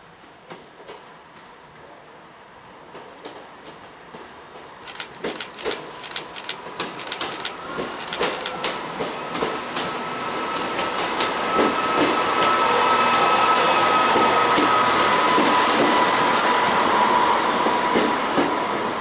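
Train approaching along the track, its wheels clicking rapidly over rail joints and pointwork from about five seconds in and growing steadily louder. A steady high whine and the rumble of the train are loudest in the second half.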